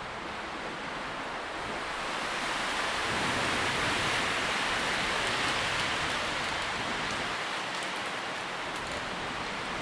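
Wind rustling through tree leaves: a steady hiss that swells a few seconds in as a gust passes, then eases.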